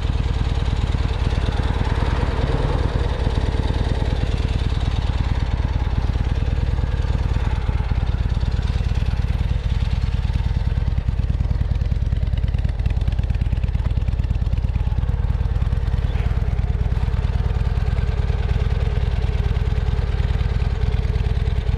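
Strong wind from an approaching typhoon buffeting the microphone: a steady, heavy rumble.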